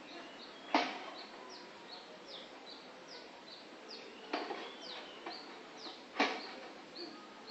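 Small birds chirping over and over, a short high falling chirp about every half second. Three louder short sounds stand out: about a second in, just past four seconds and just past six seconds.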